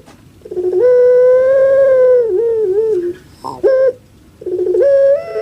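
Puter pelung dove (Streptopelia risoria) singing its long coo: a few stuttered notes, a long held note, then a wavering tail, followed by a short note and the start of another call.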